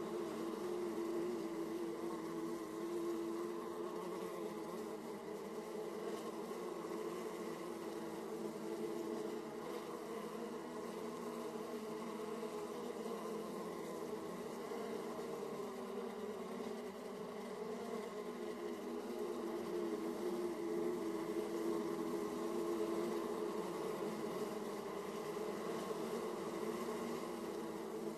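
Many honeybees humming and buzzing at a hive entrance, a dense steady drone that swells a little now and then as bees fly in and out.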